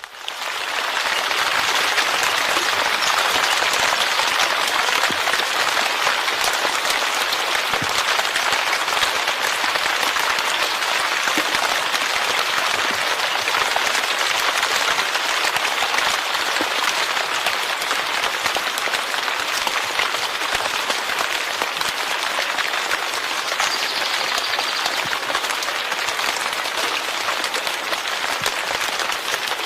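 Steady heavy rain, a dense, even patter that rises out of silence within the first second and then holds level.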